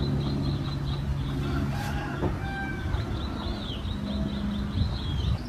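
Birds calling, with clucking and a run of quick high chirps repeating, over a low steady hum.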